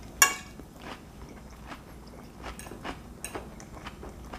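Close-up chewing and biting of a steak salad, with small crunches spread through. About a quarter second in, one sharp clink, loudest of all, as the fork strikes the plate.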